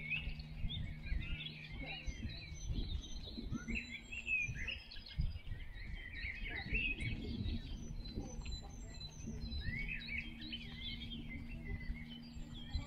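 Small songbirds chirping and twittering, many short overlapping calls throughout. Underneath runs a steady low hum that drops away for a few seconds in the middle and comes back near the end, over a low rumble.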